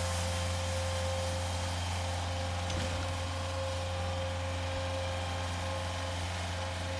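Snowblower running steadily: an even engine drone with a steady whine over the hiss of snow being thrown, and a faint tick about three seconds in.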